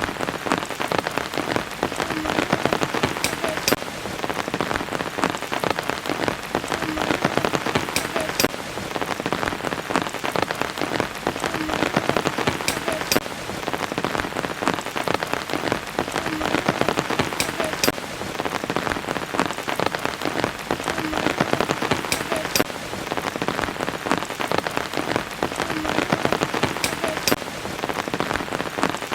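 Steady rain falling, with many separate drops striking close by. The same stretch repeats about every four and a half seconds, as a looped recording does.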